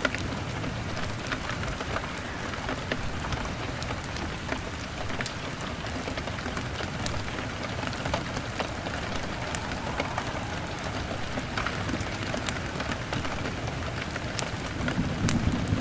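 Steady rain pattering on a window, with scattered sharp crackles from a wood fire. A low rumble of thunder builds near the end.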